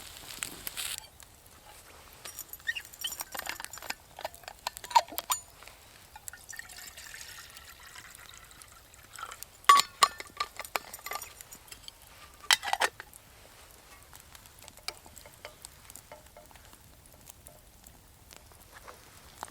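Clinks and knocks of metal camp cookware or a cup being handled, in three short clusters, a few of them ringing briefly, with liquid poured in between.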